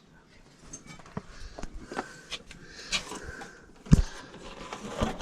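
Light clicks, taps and rustling from handling parts and tools, with one heavy thump about four seconds in.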